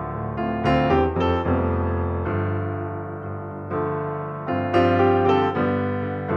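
Background piano music: soft chords and melody notes struck and left to fade.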